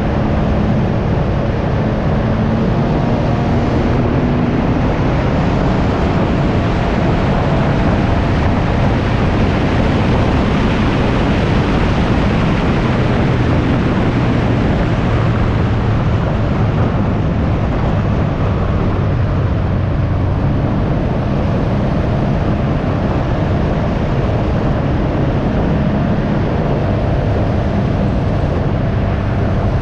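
Can-Am Ryker 900 three-wheeler's three-cylinder engine running at road speed, with heavy wind rushing over the microphone. The engine note sinks a little in the middle and picks up again near the end.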